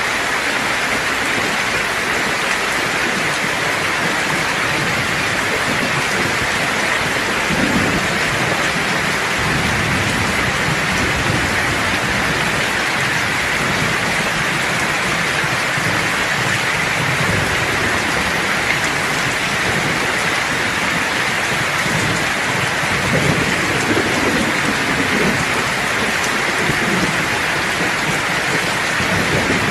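Steady heavy rain, with low rolling thunder rumbling twice underneath, about a quarter of the way in and again past the two-thirds mark.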